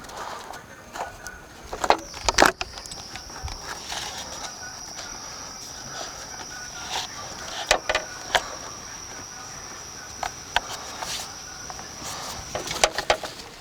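Hands working seat belt hardware and plastic trim pieces into place, giving scattered clicks and knocks, a cluster about two seconds in and another near the end. A steady high-pitched tone sounds from about two seconds in until shortly before the end.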